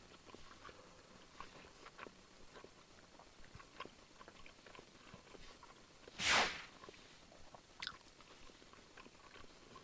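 Faint chewing of a mouthful of peri peri cheeseburger, with small wet clicks from the mouth. About six seconds in comes one loud, short rush of breath as the chilli sauce's heat kicks in, then a single click.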